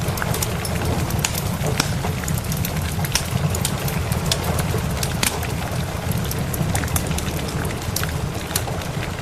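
Ambience of rain together with a crackling wood fire: a steady hiss of rain over a constant low rumble, with frequent sharp crackles and pops scattered irregularly throughout.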